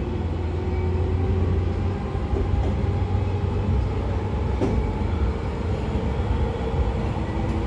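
A JR 113 series electric train running steadily, heard from its motor car: a continuous low rumble of wheels on rail through the DT21B bogies, with a steady hum from the MT54 DC series-wound traction motors and gears. A faint knock comes a little past halfway.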